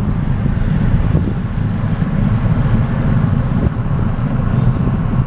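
Steady low rumble of wind buffeting the microphone of a moving bicycle, mixed with road traffic noise.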